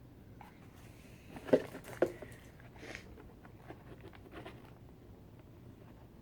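Handling of a boxed firework: two sharp taps about a second and a half and two seconds in, with faint rustling and small clicks around them.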